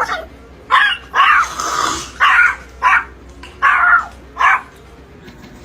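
A dog barking and growling in about seven harsh bursts over roughly four seconds, then stopping.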